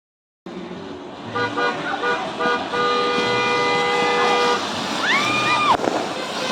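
Several horns tooting in overlapping long blasts over a background din, with one tone that bends up in pitch, holds and drops away about five seconds in.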